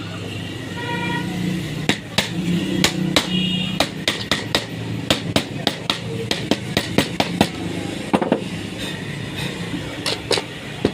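Irregular sharp taps and knocks, several a second, from work at a repair bench, over steady street traffic noise. A vehicle horn beeps twice in the first few seconds.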